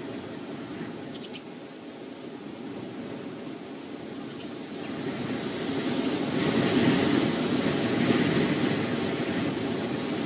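Wind rushing over an outdoor nest-camera microphone, a steady noise that swells into a stronger gust about halfway through.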